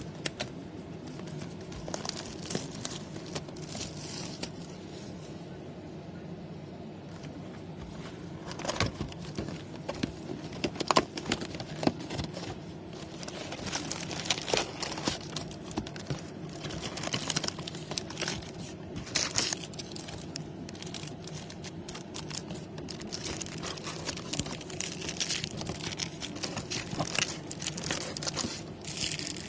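Plastic wrapping crinkling and tearing in irregular bursts as a box of trading-card packs is unwrapped and its packs are handled and pulled out.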